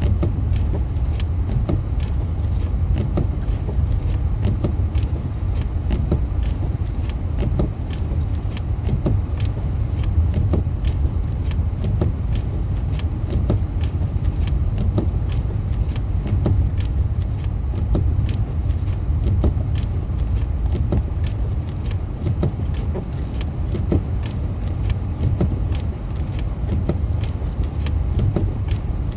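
Road and engine noise heard from inside a moving vehicle's cabin at highway speed: a steady low rumble with many faint, irregular ticks throughout.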